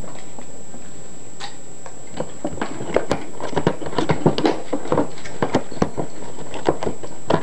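A string of irregular light clicks and taps from small hard objects being handled, sparse at first and much busier from about three seconds in.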